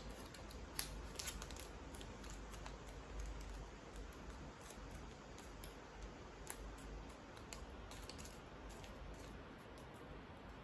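Origami paper being folded and creased by hand: faint, scattered crinkles and small ticks of paper being handled.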